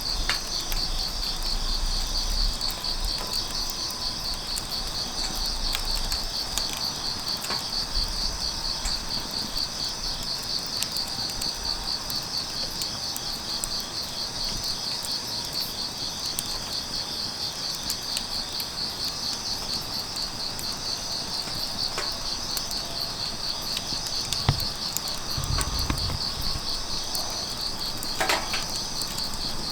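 Grass insects (crickets) chirping in a steady, rapid pulsing trill, with scattered small crackles from a burning wood fire.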